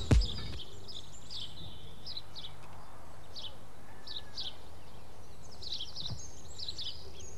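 Small birds chirping and singing in short phrases over a steady low hum. A single heavy knock right at the start is the loudest sound.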